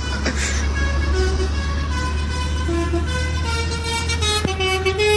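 Car horns sounding over the steady low rumble of engine and road noise picked up by a dashcam, with a long held horn note near the end.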